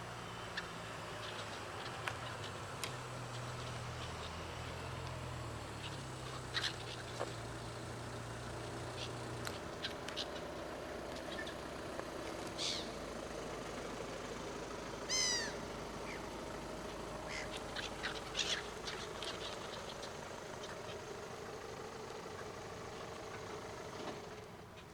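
Wild birds calling at intervals over a steady outdoor background, with one louder, clearer call about fifteen seconds in. A low steady hum runs underneath and stops about nine seconds in.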